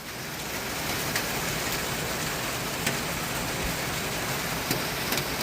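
Heavy rain pouring down: a steady hiss with scattered sharp ticks of drops hitting close by.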